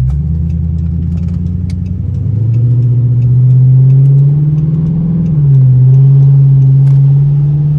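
Straight-piped Dodge Charger R/T's 5.7-litre Hemi V8 exhaust accelerating, heard from inside the car. The engine gets louder at the start and climbs in pitch, drops at an upshift a little after five seconds in, then climbs again.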